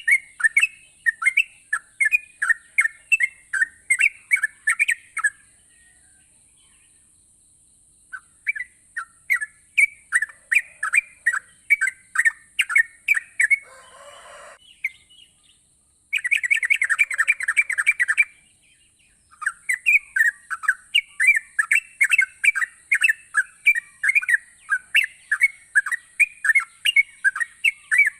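Yellow-vented bulbul (trucukan) singing energetically: short chattering notes repeated about twice a second, breaking off twice for a few seconds, with a faster, denser run of notes just past the middle.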